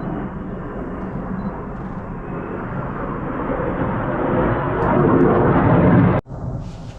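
Display-team aircraft flying over, a steady engine roar that grows louder toward a peak about six seconds in, then cuts off suddenly and comes back much fainter.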